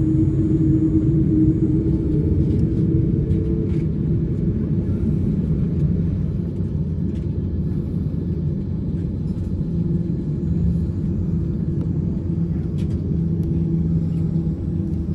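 Boeing 787-8's Rolls-Royce Trent 1000 turbofan being started, heard from inside the cabin as a steady low rumble with a faint hum that shifts slightly in pitch.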